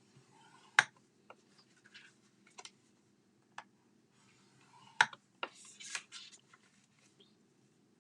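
Paper being handled on a craft scoring board: a few sharp taps and clicks, the loudest about a second in and about five seconds in, with a short stretch of paper rustling just after.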